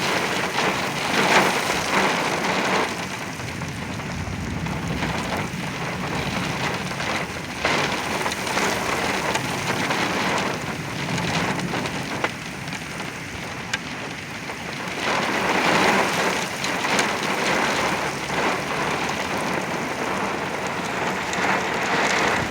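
Very heavy rain pouring down in a derecho-type thunderstorm, with gusting wind. The rush swells and eases as gusts come through, louder about a second in and again past the middle, with a few sharp ticks.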